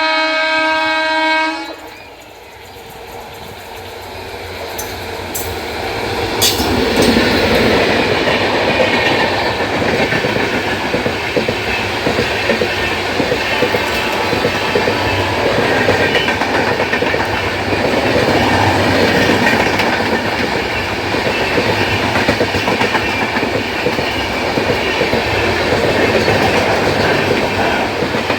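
Indian Railways express train with LHB coaches: the locomotive's horn sounds for about a second and a half, then the train closes in and passes at high speed. A few sharp cracks come as it nears, then a steady loud rumble and clatter of the coaches running over the rails.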